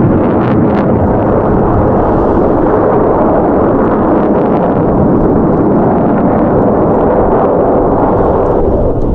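Loud, steady jet roar from an F-22 Raptor's engines in flight.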